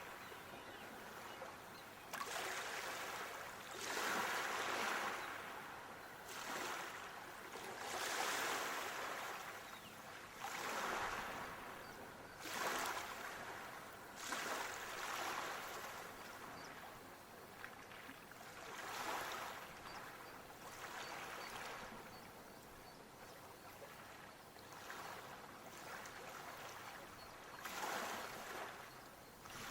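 Water washing in swells, rising and falling every few seconds like small waves lapping.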